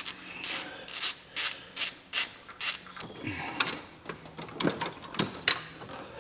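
Hand ratchet working a stuck fastener under the hood: a run of even rasping strokes, about three a second, then slower, irregular strokes about halfway through.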